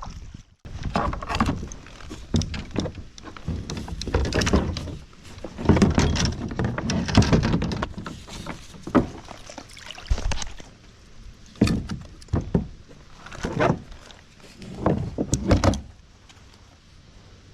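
Irregular knocks, thuds and rustling of gear and paddle being handled in a kayak, with several sharp knocks in the second half, then it quietens near the end.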